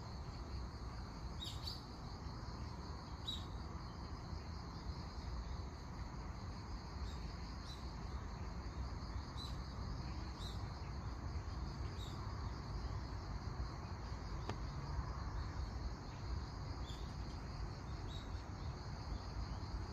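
Crickets chirping steadily in a high continuous drone, with a few short bird chirps here and there over a low background rumble.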